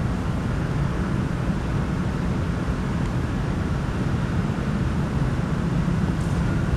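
Freight train passing on the tracks, a steady low rumble of its wheels running on the rails.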